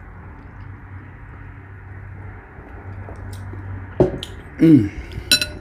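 A steady low background hum, then about four seconds in a few short vocal sounds from the eater, each falling in pitch, with a brief sharp click just after them.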